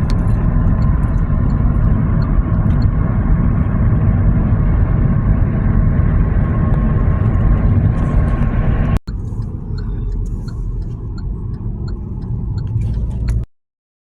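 Heavy, steady low rumble of a train going by. It breaks off abruptly about nine seconds in, resumes a little quieter, and cuts off near the end.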